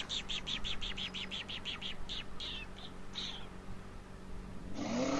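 A small songbird's rapid trill of short, high chirps, about seven a second, slowing to a few separate notes and stopping about three seconds in.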